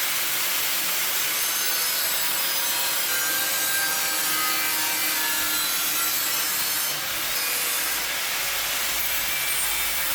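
A power tool cutting a replacement rust-repair patch out of sheet steel, a steady harsh noise without a break.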